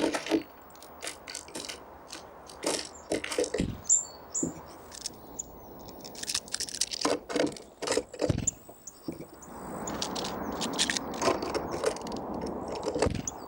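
Small birds pecking and hammering at seeds close to the microphone: irregular sharp taps and cracks. A couple of short high call notes about four seconds in, and a rushing noise rises about ten seconds in.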